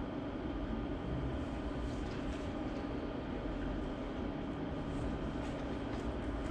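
Steady room noise: a low rumble with a faint hum and a few scattered faint ticks.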